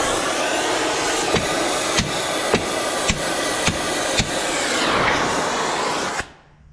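Hammer blows on a steel track pin, about two a second, driving the pin loose hard enough to mushroom its end, over a loud steady noise that cuts off suddenly about six seconds in.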